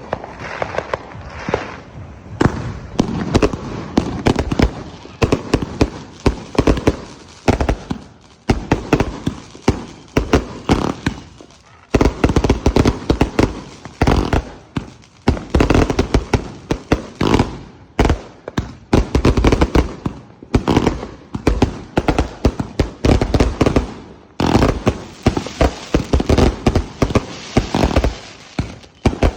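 A 49-shot firework cake with 2-inch tubes firing a rapid string of shots. The launches and bursts come thick and fast from about two seconds in, with a few brief pauses.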